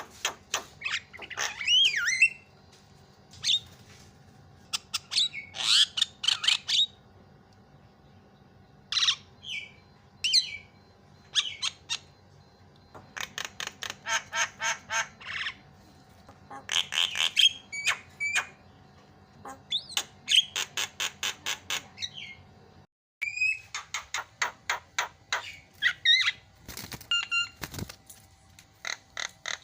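Javan myna (jalak kebo) singing in full, busy song. It mixes harsh squawks and short sliding whistles with bursts of fast rattling clicks at several a second, the bursts coming one after another with short gaps.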